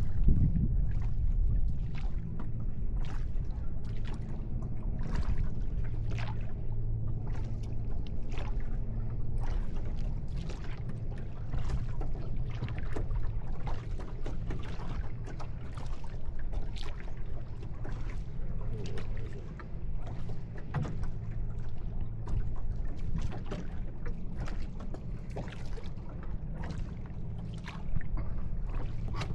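A boat moving through water: a steady low rumble under frequent short splashes and knocks.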